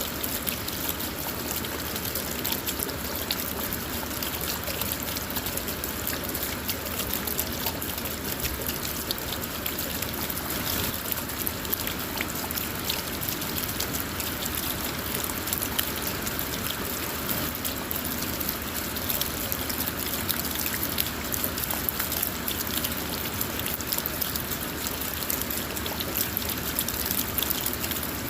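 Steady rain falling on a car, heard from inside: a constant hiss with many small drop ticks on the body and glass.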